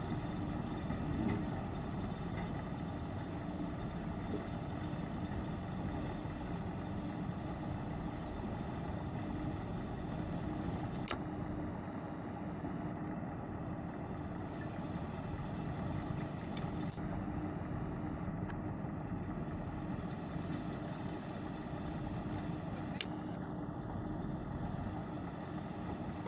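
Truck engine running steadily at an even pace, without revving.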